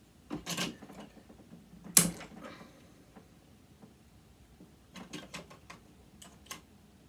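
Metal parts of a sewing machine motor and hand tools clicking and knocking as it is taken apart. One sharp knock with a brief ring about two seconds in, then a quick run of light clicks about five seconds in.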